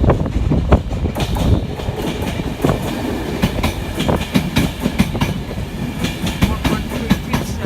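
A train passing close by, its wheels clattering over rail joints and points in a quick, uneven run of clicks over a low rumble. The clicks come thicker from about a second in.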